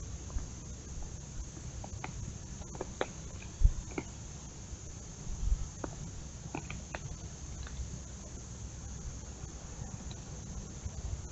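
Outdoor backyard ambience: a steady high insect drone, with a few very short high chirps scattered through the middle and two dull low thumps, the first of them the loudest sound.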